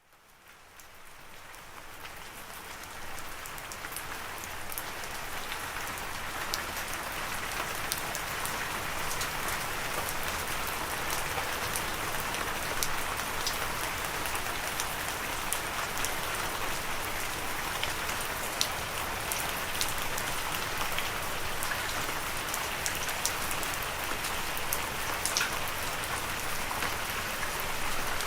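Steady rain falling on a surface, an even hiss with scattered sharp drop ticks, fading in from silence over the first few seconds.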